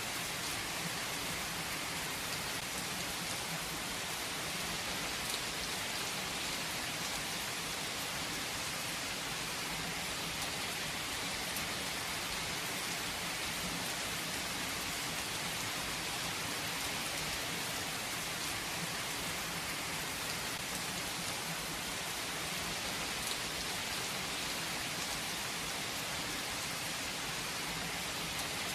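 Steady rain falling on a hard surface, a dense even hiss with scattered drop ticks.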